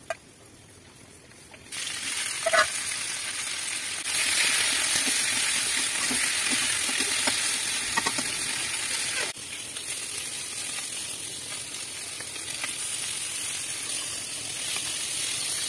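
Sliced pointed gourd and potato sizzling in hot oil in a steel kadai, with a metal spatula clinking now and then as they are stirred. The sizzle starts suddenly about two seconds in and gets louder around four seconds.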